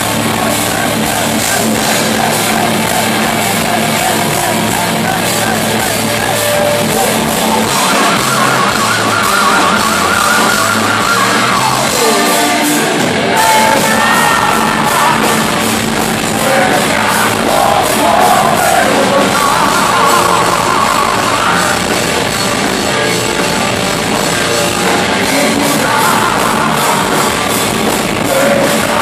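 Heavy metal band playing live in a concert hall, loud and continuous, with a sung vocal line coming in about eight seconds in.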